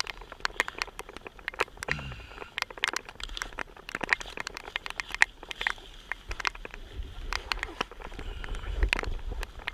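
Light rain falling on a kayak and camera: scattered, irregular sharp taps of drops. From about seven seconds in, a low rumble of wind joins it.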